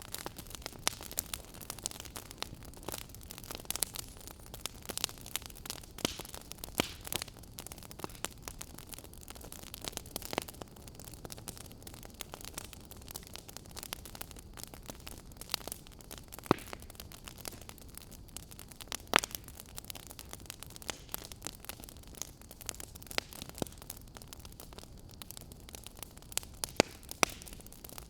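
Wood fire in a fireplace crackling: irregular sharp pops and snaps, a few much louder than the rest, over a steady low hiss.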